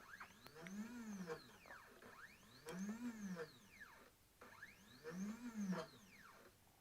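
The stepper motor of a 3018 desktop CNC router driving the bed back and forth in three separate jog moves. Each move is a whine that rises in pitch and then falls again as the motor speeds up and slows down.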